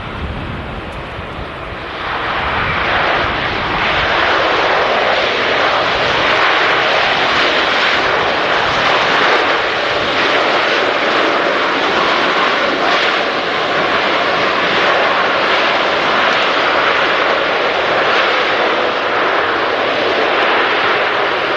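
Jet airliner passing low overhead as it comes in to land, its engines a loud, steady roar that rises sharply about two seconds in.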